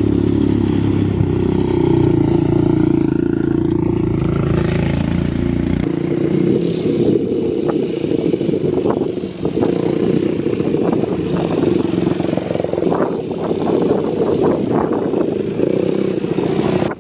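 Motorcycle engine running close by, its pitch rising and falling, with rattling and clatter. The sound changes abruptly about six seconds in to a rougher running noise with many short knocks.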